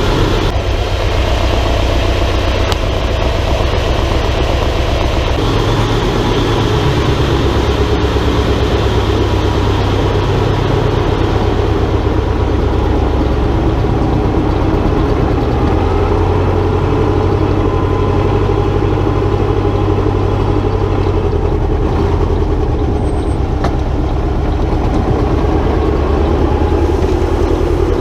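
T-25 tractor's two-cylinder air-cooled diesel engine running steadily while clearing snow, its note shifting slightly a few times as the load changes.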